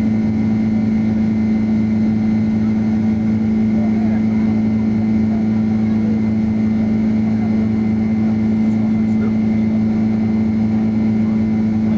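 Steady engine drone of a Boeing 767-300 heard inside the passenger cabin in flight: a constant low hum with a few fainter steady tones over a broad rush of noise.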